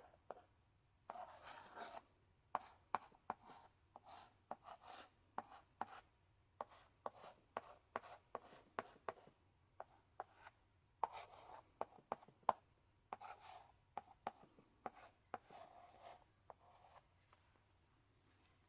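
Chalk in a chalk holder writing on a blackboard: sharp taps as strokes begin, with short scratchy strokes between them in irregular bursts. It stops about a second and a half before the end.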